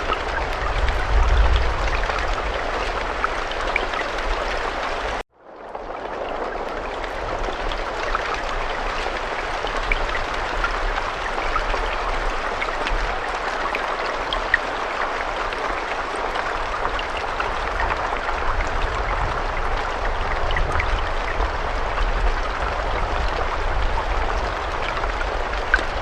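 Steady rain falling, with faint scattered drop ticks over an even hiss and a low rumble underneath. About five seconds in it cuts out abruptly and fades back in within a second, like a splice in a looped recording.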